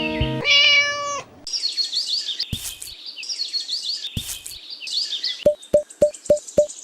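A short held animal-like call, then small birds chirping rapidly for several seconds, followed near the end by an even run of sharp ticks, about four a second.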